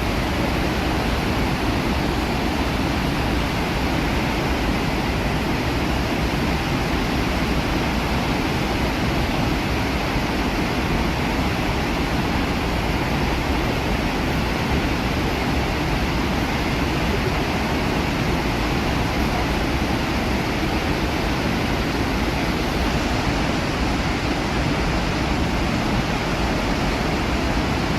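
The steady roar of the Iguazu Falls waterfalls, a dense even rush of falling water with no breaks or changes.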